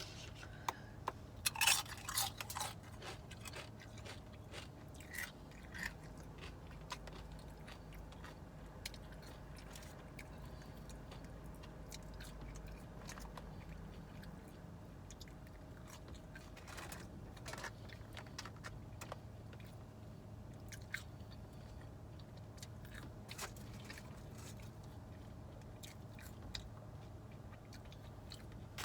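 A person chewing and biting food close to the microphone, with a run of crisp crunches in the first few seconds and sparser mouth clicks after.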